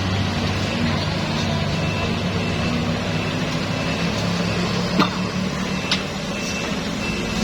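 Heavily loaded truck's engine running steadily, with two short sharp clicks about five and six seconds in.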